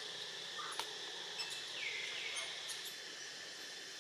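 Outdoor ambience of steadily buzzing insects, with a sharp click about a second in and a few short high chirps and two falling squeaky calls near the middle.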